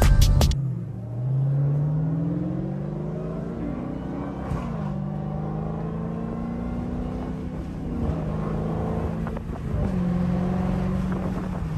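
Dodge muscle car's V8 engine accelerating: its note climbs for about three seconds, drops at a gear change, then holds fairly steady with a couple more small shifts in pitch.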